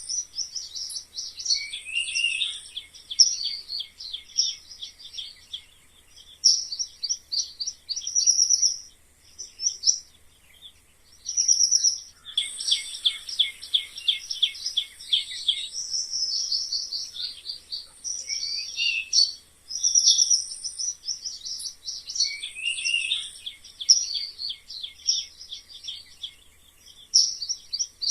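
Mice squeaking: quick runs of high-pitched chirping squeaks that come in bursts of a few seconds with short pauses between them.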